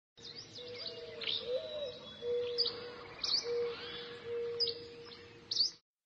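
Birds chirping, with short sharp high calls every second or so over a steadier lower whistling tone; the sound cuts off suddenly near the end.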